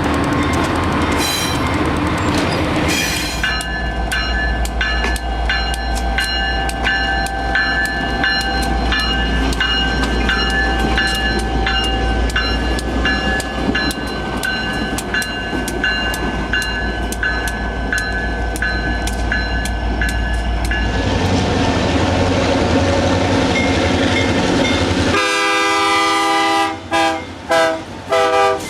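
Diesel-hauled train passing with a heavy rumble and steady clicking of wheels over rail joints. Near the end a locomotive air horn sounds a chord in short blasts.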